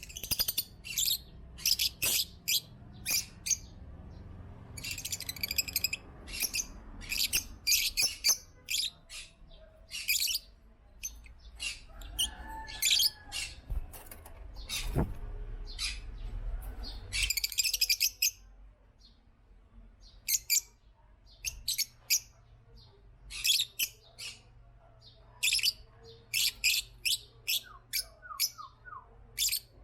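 African lovebirds chirping: shrill, high-pitched chirps coming in rapid clusters with short pauses between them.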